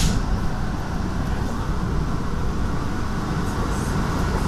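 Steady rumble and wheel-on-rail noise of an NJ Transit Comet IV passenger coach running at speed, heard from inside the car.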